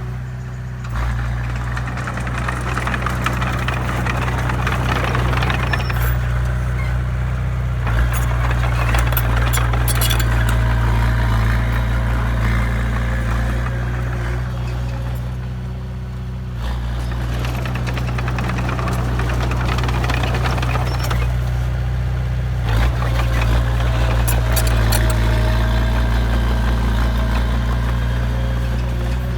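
Heavy diesel engine of a dump truck or earthmover running steadily, working harder in two long stretches with a short easing about halfway through.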